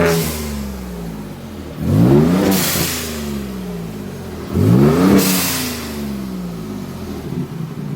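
Turbocharged 3.5-litre EcoBoost V6 of a Ford Raptor with downpipes and a Corsa Extreme cat-back exhaust, revving up and falling back three times, about every two and a half seconds. Each rev is followed by a short rushing hiss as it drops.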